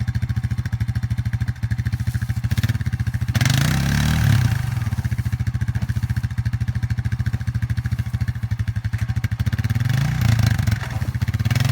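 ATV engine running with a steady, even pulse, revved up twice: once about three seconds in and again near the end.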